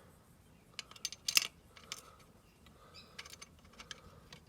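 Light metallic clinks and taps of small metal parts being handled, a cluster about a second in holding the loudest clink, and more around three seconds in, one with a brief ringing.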